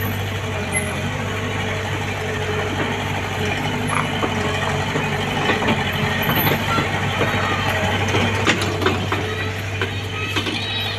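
Engine idling steadily with a low, even hum, with scattered short knocks and clatter over it.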